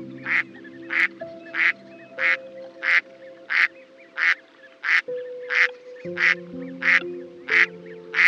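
A duck quacking in a steady series, about three calls every two seconds, over soft piano music.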